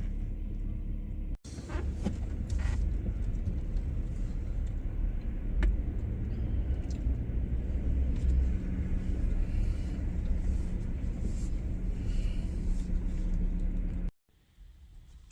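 Car driving, a steady low road rumble with no speech. It breaks off for an instant about a second and a half in and cuts off abruptly near the end.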